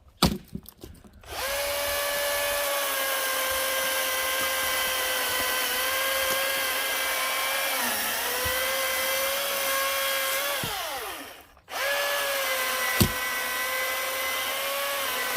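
Battery-powered chainsaw running at a steady high whine while cutting firewood logs, with its pitch sagging briefly under load. It winds down and stops a little past the middle, then starts again straight away, and a sharp knock comes soon after. A few knocks come just before the saw starts.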